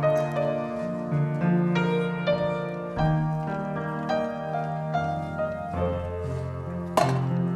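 Slow, quiet piano music with long held chords. A single sharp click or knock comes near the end.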